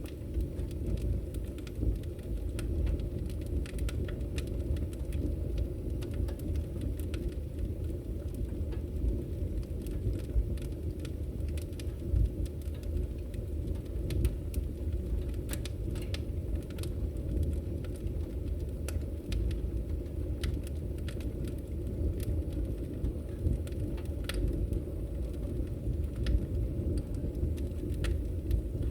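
Wood fire burning with a steady low rumble and frequent irregular crackles and pops from the logs.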